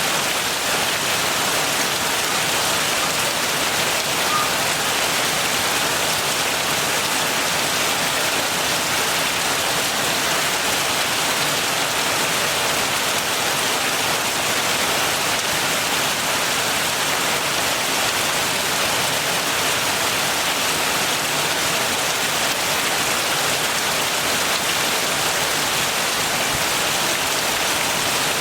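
Steady heavy rain falling: a dense, even hiss of drops with no thunder.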